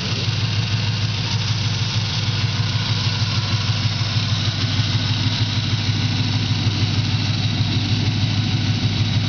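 1994 Chevrolet Impala SS's LT1 V8 idling through budget headers and a Spintech exhaust dumped ahead of the rear axle: a steady, even pulsing exhaust note.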